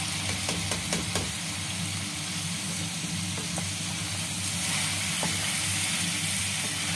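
Hot oil sizzling in a wok as sliced raw potatoes are tipped into a tomato masala and stirred with a wooden spatula. There are a few clicks as the slices and spatula hit the pan in the first second or so, and the sizzle grows louder about five seconds in.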